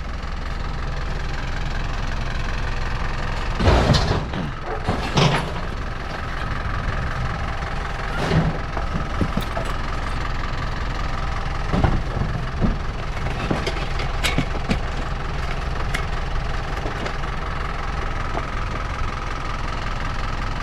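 Truck engine idling steadily, with a few sharp knocks and clanks over it, the loudest pair about four and five seconds in, as scrap is handled and loaded.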